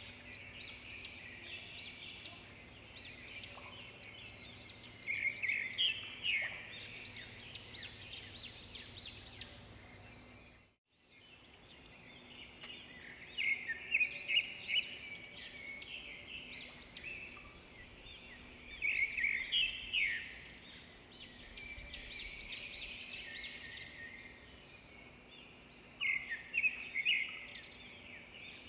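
Several birds chirping and singing together: a dense chorus of short, high chirps and trills, with louder bursts every few seconds. The sound drops out briefly about eleven seconds in, then the chorus resumes.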